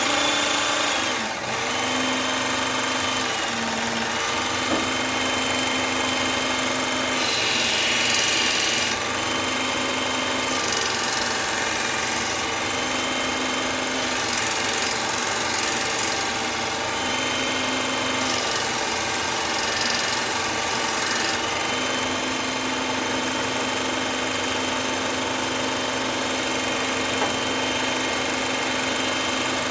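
Electric belt sharpener starting up and running steadily while knives are sharpened on it. Its steady hum briefly shifts pitch and drops out several times.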